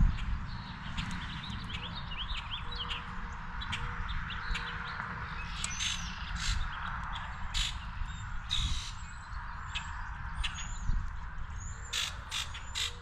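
Wild birds calling: scattered short chirps and a few louder, harsher calls over a steady low rumble.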